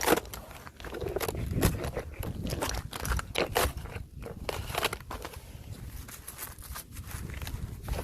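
Fresh thin ice crunching and crackling as it is trodden on and broken, an irregular series of sharp crunches with some scraping, about one a second and fading somewhat in the second half.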